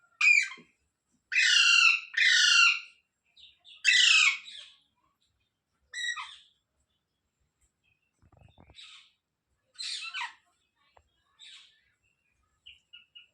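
Parrot squawking: a run of loud, harsh calls, each falling in pitch, with two close together about a second and a half in and another near four seconds. After that the calls come fewer and quieter, ending in a few short soft chirps.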